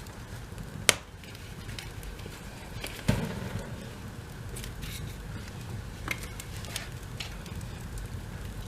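Wood fire crackling in a fireplace: scattered sharp pops over a low steady rush, the loudest pop about a second in, and a duller knock about three seconds in.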